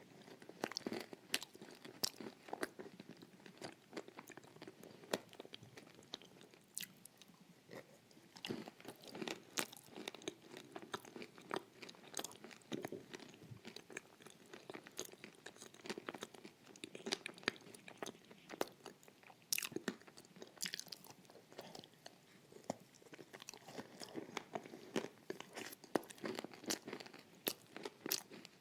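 Close-up crunching and chewing of dry edible clay: irregular sharp crunches as pieces are bitten and broken, over a wet churning as the clay turns creamy in the mouth.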